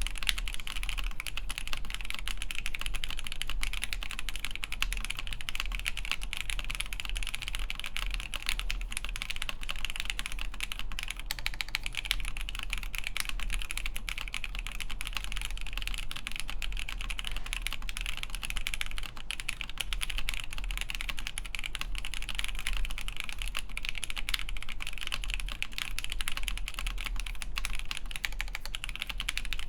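Continuous typing on a Han's 80 ver. 2.1 (NEO 802) mechanical keyboard with Alpaca v2 linear switches lubed with 205g0, an FR4 plate and Hammerworks CRP keycaps: a steady, dense stream of keystroke clacks.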